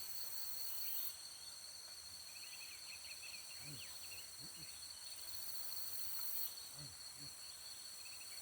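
Tropical forest insects, cicadas and crickets, droning steadily in a high pitch, swelling louder near the start and again later. A small bird twitters in a quick run of chirps about two to three seconds in.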